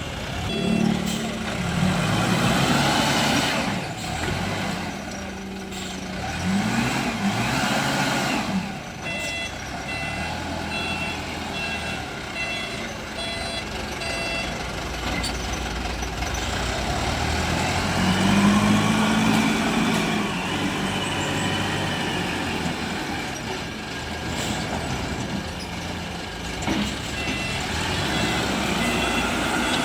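SYZG ZL 932 wheel loader's diesel engine working, its revs rising and falling several times as it loads. A reversing alarm beeps in short repeated pulses in the middle stretch and again near the end.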